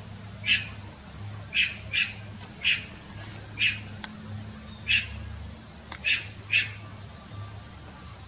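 A bird calling in short, harsh squawks, eight in all, spaced irregularly about half a second to a second apart.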